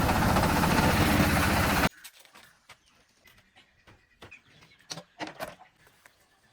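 A small engine running steadily with a fast, even firing rhythm, stopping abruptly about two seconds in. Faint scattered clicks and knocks follow.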